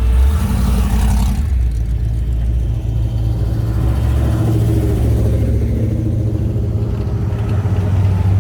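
Car engine rumbling low and steady as a car drives slowly past, with a brief louder rush of noise in the first second or so.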